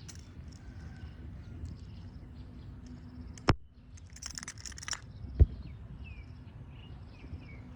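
Birds chirping in short repeated high calls over a low rumble. Two sharp knocks stand out, about three and a half and five and a half seconds in, with a short rustle between them.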